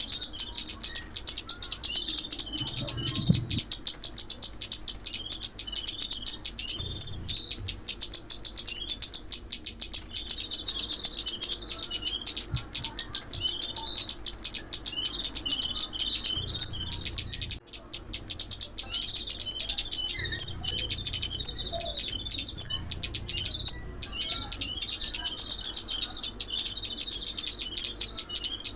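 Sunbird song: rapid, high twittering trills repeated almost without pause, with a thin, steady high whistle running beneath through much of it and a few brief breaks. It is a trapping lure recording.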